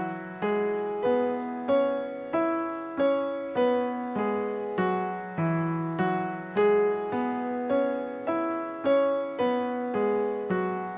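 Piano playing the E major pentatonic scale (E, F sharp, G sharp, B, C sharp) slowly with both hands together, one evenly spaced note about every half second to a second, stepping up and back down the scale.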